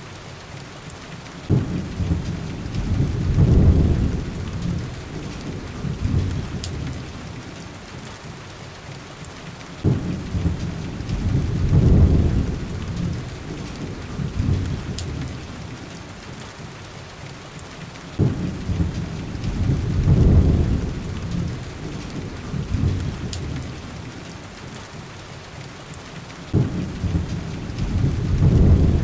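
Heavy rain falling steadily on a window, with low rolls of thunder four times, each starting suddenly and swelling for a couple of seconds before dying away.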